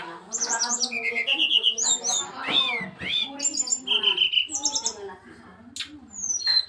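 Brown-chested jungle flycatcher singing a varied song of quick whistles, short trills and rising and falling slurred notes. There is a brief lull about five seconds in.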